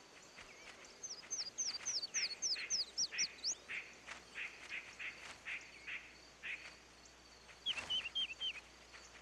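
A quick series of about nine short, high chirping calls, then four more a little lower near the end, with faint clicks and rustling underneath.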